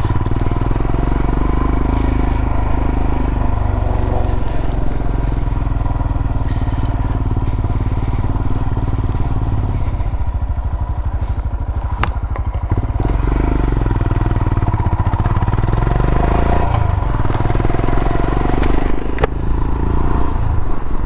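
Royal Enfield Himalayan's single-cylinder engine running steadily on the move, its note swelling and easing several times as the throttle changes. There is a single sharp click about halfway through.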